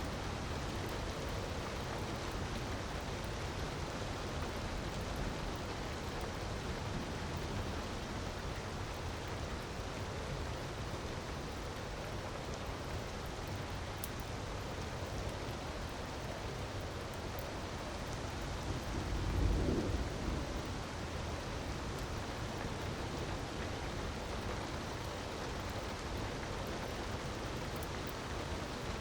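Steady rushing water ambience, with a low rumble that swells and fades about two-thirds of the way through and a few faint ticks.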